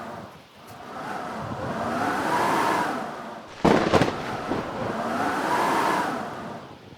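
Blizzard wind gusting in waves, swelling and fading about every three seconds with a whistling howl that rises and falls. A sharp loud crack or knock about two-thirds of the way through.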